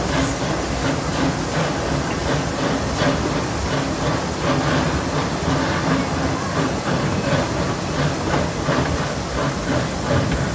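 Amusement-park steam locomotive train running, a steady mix of steam hiss and wheels clacking over the rail joints.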